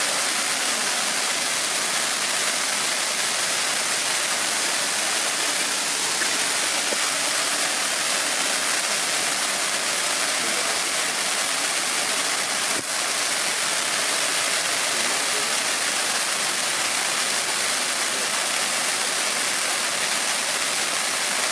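Ranta Fireworks Secret Garden RT4014 smoke fountain burning with a steady, even hiss of spraying sparks, still going on its long burn. There is one momentary dip about thirteen seconds in.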